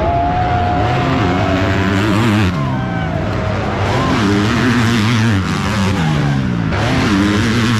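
Motocross bikes of the 250 class racing, their engines revving up and dropping back over and over as the riders open and close the throttle and shift.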